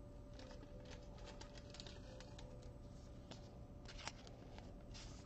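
Faint rustling and scattered light clicks of trading cards and their packaging being handled.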